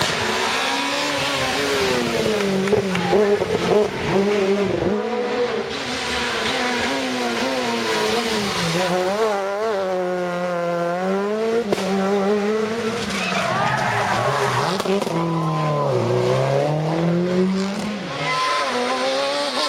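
Rally cars at full throttle on a stage, the engine note climbing and dropping repeatedly with gear changes and braking, with some tyre squeal.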